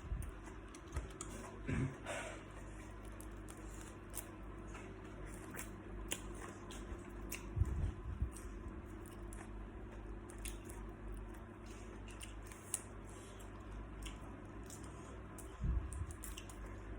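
Close-up eating sounds of salt-baked shrimp being chewed and handled, with scattered small clicks and a few soft low thumps.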